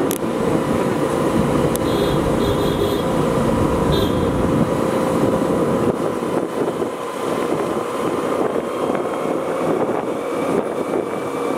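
Steady running rumble and rattle of a moving train heard from on board, with a faint steady whine; the low rumble eases after about four or five seconds.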